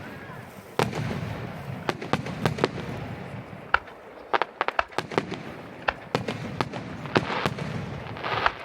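Fireworks display: a fast, irregular run of sharp bangs from bursting shells over a continuous rumble, with a spell of dense crackling near the end.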